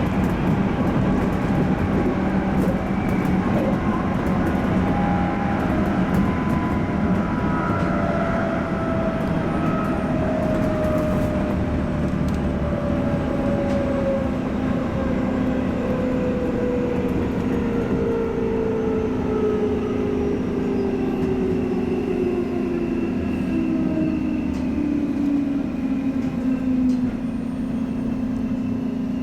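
A JR 211 series electric train running on the rails, with a motor and gear whine that falls steadily in pitch as the train slows. The falling tone levels off near the end.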